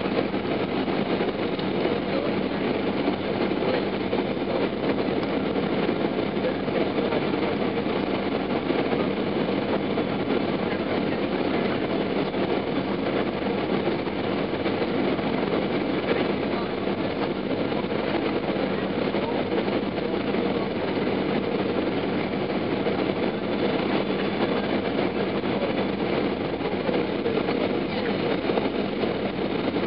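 Steady engine and airflow noise inside the cabin of a Boeing 737-800 with CFM56-7B turbofans, an even rush that holds its level without any sudden change.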